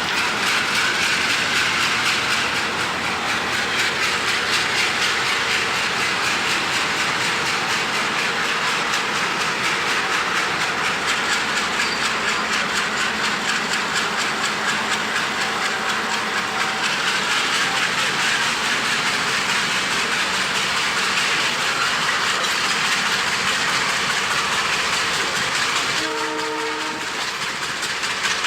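Passenger train running, heard from on board: a steady rush and clatter of wheels on rail mixed with wind blowing on the microphone. A brief pitched tone sounds near the end.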